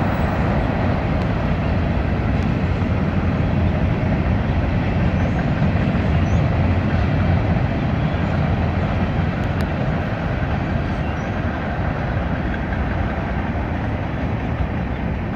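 Freight train cars rolling past on the rails with a steady rumble, mixed at first with a tanker tractor-trailer driving away on the road; the sound eases slightly over the second half.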